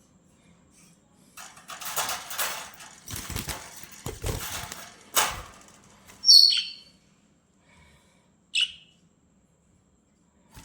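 Budgerigars flapping their wings in a flurry for about four seconds, then two short, sharp chirps about two seconds apart, the first one the loudest.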